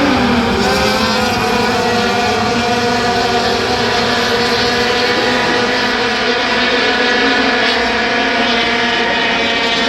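Several short-track racing trucks' engines running at racing speed on the circuit, a steady loud drone of overlapping engine notes.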